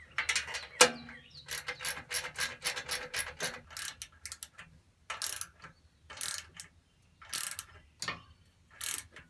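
Ratchet wrench clicking as it tightens self-locking nuts. First a quick run of clicks for about three seconds, then slower separate strokes about once a second as the nut tightens up.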